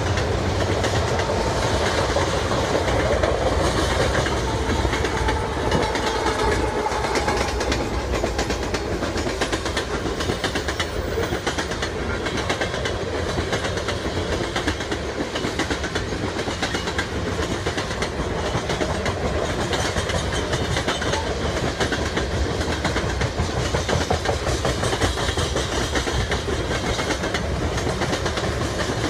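Open-top coal cars of a freight train rolling past, a steady rumble with the wheels clacking continuously over the rail joints.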